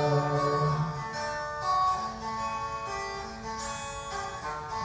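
Instrumental break in a song: an acoustic guitar plucks a melody of single notes after the last sung note fades out about a second in.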